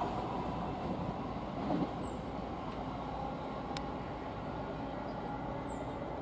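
Noise of a Greater Anglia Class 720 Aventra electric train fading away in the first second, settling into a steady low rumble. Two faint short high chirps come about 2 s and 5.5 s in, with a single sharp tick between them.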